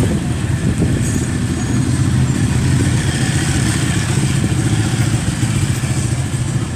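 Motorcycle engines running steadily with a fast, low pulsing throb.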